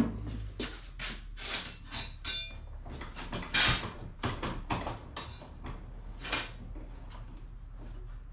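Metal pieces being handled: a series of irregular knocks and clanks, some with a brief metallic ring, with the sharpest hit at the start.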